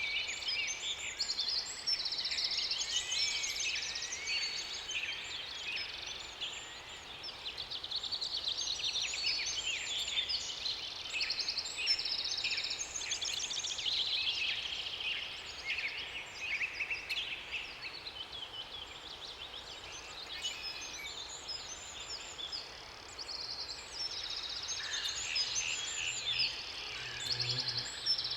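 A chorus of several songbirds singing at once, with many overlapping fast trills and chirps, over a faint steady hiss.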